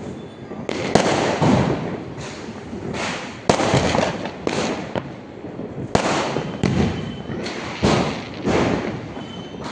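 Diwali firecrackers going off one after another: about a dozen loud bangs at irregular intervals, each echoing away over a second or so.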